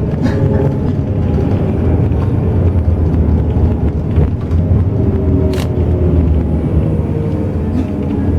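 Highway bus running on the road, heard from inside the cabin: a steady, mostly low-pitched engine and road noise, with faint engine tones drifting slowly in pitch.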